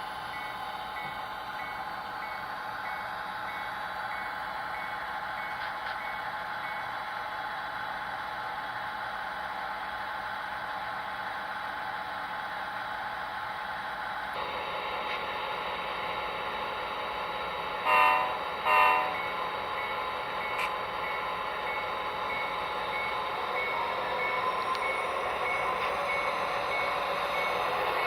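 Diesel locomotive sounds played by a model train's sound decoder: a steady engine hum with a bell ringing, and two short horn blasts about two-thirds of the way in. The sound grows louder near the end as the train draws closer.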